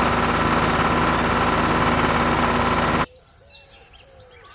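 Toy tractor's engine sound running steadily at one pitch with a fast pulse, cutting off abruptly about three seconds in. Faint bird chirps follow.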